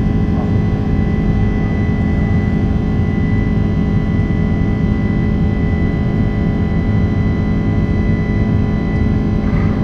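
Jet airliner engines heard from inside the passenger cabin during the climb: a steady, loud rumble with several steady whining tones over it.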